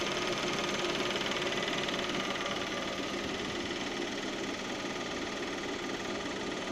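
Lada Priora's VAZ-21127 16-valve engine idling, with a rapid, steady ticking from the evaporative canister purge valve (adsorber valve). The tick comes on a cold engine and is harmless: it is the purge valve, not the hydraulic lifters or the piston group.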